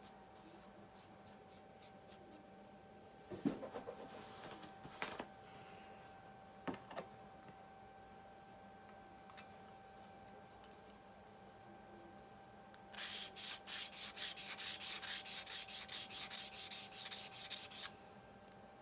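A 600-grit Lansky guided-sharpening hone stroked back and forth along a steel blade edge: a quick, even run of scraping strokes, about two and a half a second, lasting some five seconds near the end. A few light clicks and knocks of handling come a few seconds in.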